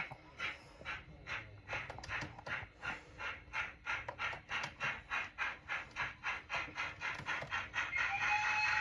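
Model locomotive's sound unit chuffing in a steady, slightly quickening beat, about three to four chuffs a second, as the engine gets under way. A steady whistle-like tone comes in near the end.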